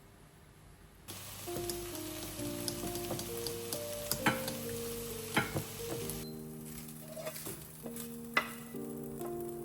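Food frying in a pan: a sizzle that starts suddenly about a second in and eases after about six seconds, with a few sharp clinks of a utensil. Soft piano music plays over it.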